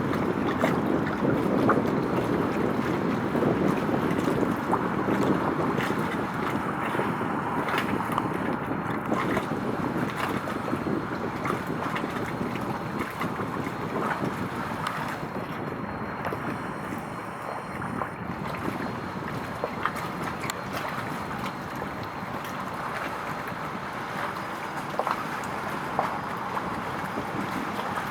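Steady wind buffeting the microphone over a wash of water noise, easing off slightly as it goes on.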